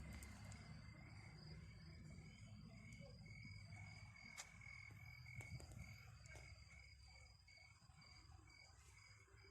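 Crickets chirping faintly in a steady, rapidly pulsing trill, over a low rumble with a few light clicks partway through.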